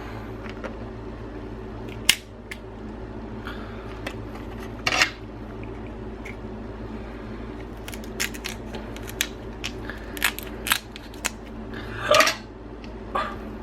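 Crab shells cracking and snapping as crab legs are broken open and picked for meat: a scattered series of sharp clicks and crunches. A steady low hum runs underneath.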